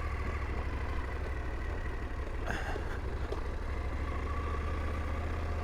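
Motorcycle engine of a KTM 890 Adventure R, a parallel twin, idling steadily.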